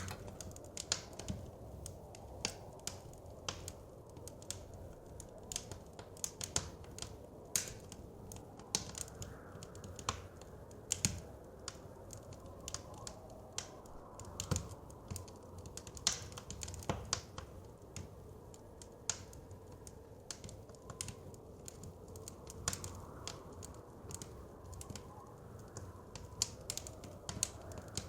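Wood fire crackling and popping in a fireplace, with irregular sharp pops over a low steady rumble of the burning fire.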